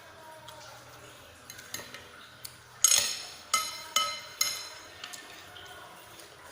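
Cutlery clinking against a soup bowl while eating bakso. A few light taps come first, then four ringing clinks about half a second apart around the middle, the first the loudest.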